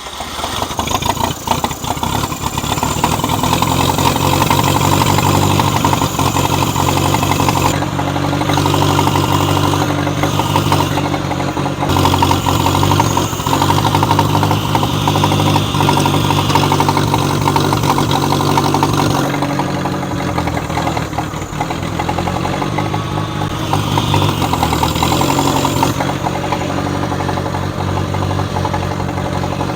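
John Deere 1010 tractor's carbureted gas engine starting on full choke, picking up over the first couple of seconds and then running steadily, its speed wavering now and then.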